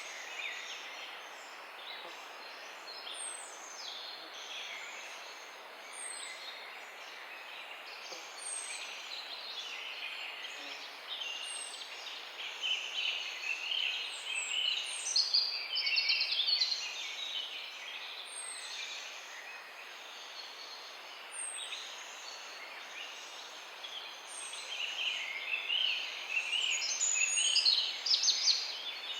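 Birds chirping, several at once, over a steady background hiss, with one short high note repeating every two to three seconds. The chirping grows busier and louder about halfway through and again near the end.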